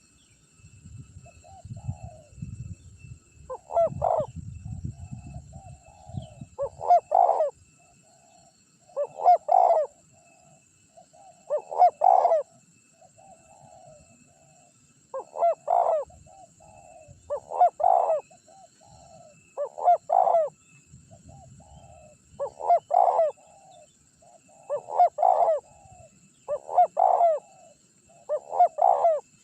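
Spotted dove (tekukur) cooing over and over, a phrase of a few loud coos about every two seconds with softer coos between them. This is the dove's persistent song, used as a lure call to draw wild doves.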